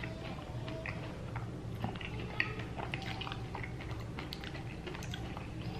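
A person chewing and crunching on tacos close to the microphone, with scattered small crisp clicks and a steady low hum underneath.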